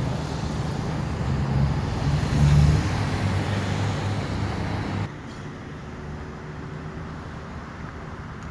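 Motor vehicle engine running with road traffic noise, a low steady hum. About five seconds in it cuts abruptly to quieter traffic noise.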